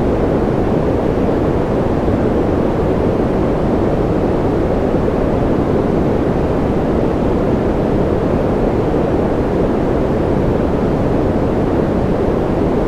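Steady sleep-aid noise: an even, deep rushing sound that does not change, heavy in the low range with little hiss on top.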